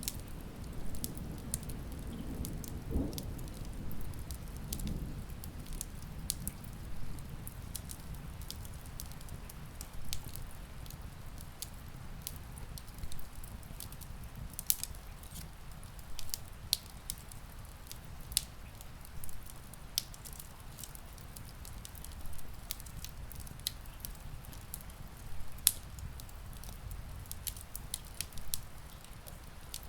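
Wood fire crackling, with frequent sharp pops at irregular intervals over a steady low rumble and a soft hiss of rain. Distant thunder rumbles and fades in the first few seconds.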